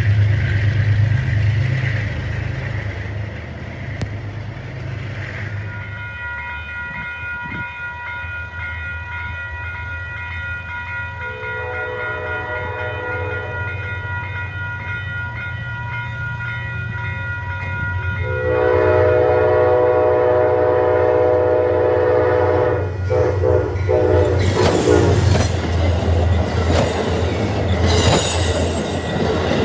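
A diesel locomotive rumbles at first; then a railroad grade-crossing bell rings steadily while an approaching Amtrak train sounds its horn in two long blasts followed by a couple of short ones for the crossing. The train then rushes past close by, its wheels clattering over the rails.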